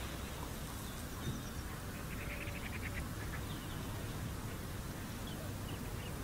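Outdoor bird calls over a steady low wind rumble on the microphone: a rapid series of about ten short, high chattering notes about two seconds in, with a few faint chirps before and after.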